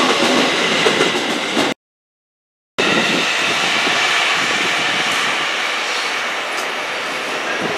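Tokaido Line electric train running on the tracks, a steady rail rumble that slowly fades as it pulls away. The sound cuts out completely for about a second near the start.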